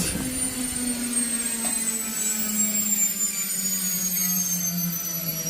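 Washing machine motor and drum spinning down: a low hum and a high whine that both fall slowly and steadily in pitch.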